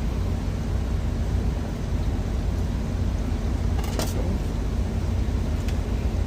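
Steady low rumble of an idling truck engine, with a single short clink about four seconds in.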